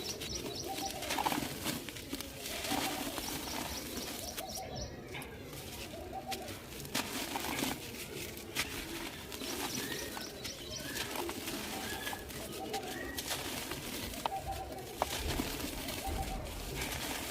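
Dry, dusty clay crumbling and crunching in irregular crackles, with a bird cooing in short repeated phrases every few seconds in the background.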